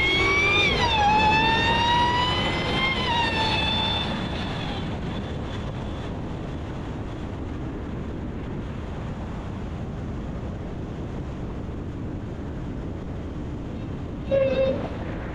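Supercharger whine from a Dodge Charger Hellcat's supercharged 6.2L Hemi under acceleration: it rises in pitch with the revs, drops sharply about a second in as the car shifts up, climbs again and fades out about four seconds in. After that there is steady engine and road noise, and near the end a car horn honks briefly.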